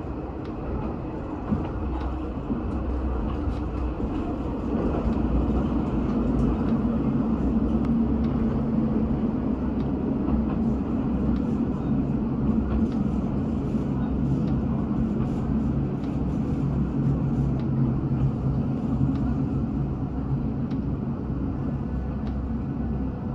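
A Nishikigawa Railway diesel railcar running with a steady low engine drone that grows louder about four and a half seconds in and then holds, with faint light clicks over it.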